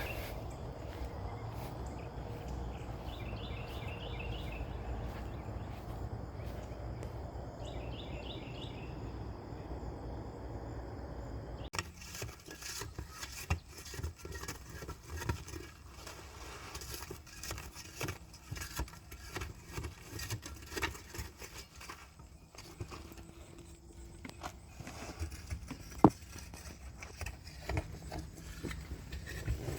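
Outdoor ambience with a steady low rumble and two short runs of chirping. Then, after an abrupt change, scattered clicks, clinks and knocks of objects being handled, with one sharp loud knock late on.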